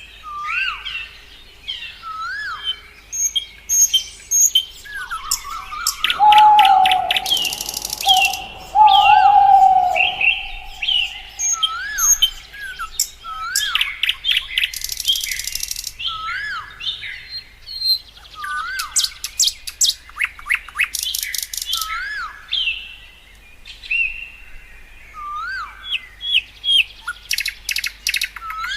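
Several birds chirping and calling together: a short note that rises and falls repeats every second or two, broken by bursts of rapid trills, with a louder, lower drawn-out whistle about a quarter of the way through.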